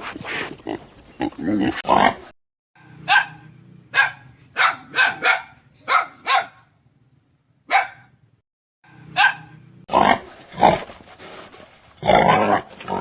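Dog barking: a run of about ten short, sharp barks over a steady low hum, with louder, longer animal calls before and after.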